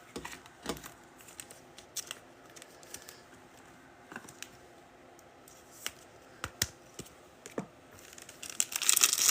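Scattered light clicks and taps of trading cards and packs being handled, then from about eight seconds in a growing crinkle and tear of a foil card pack being opened.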